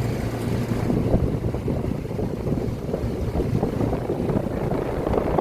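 Outdoor Rheem central air conditioner condenser running: a steady rushing of air from the condenser fan, with the compressor's low hum underneath.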